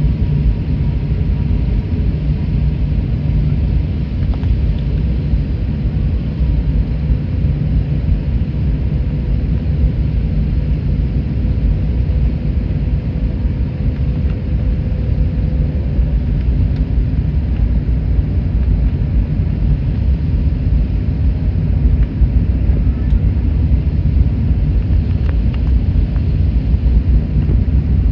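Airbus A321neo cabin noise from a rear seat: a steady low rumble of the jet engines and airflow, with a faint steady tone that fades out about halfway through.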